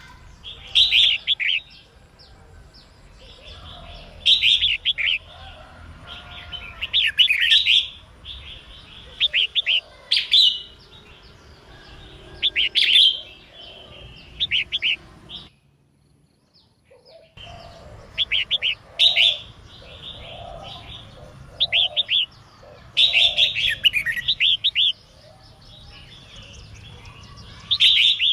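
Female red-whiskered bulbul singing: short bursts of bright, rapid chirps repeated every second or two, with a pause of about two seconds a little past halfway.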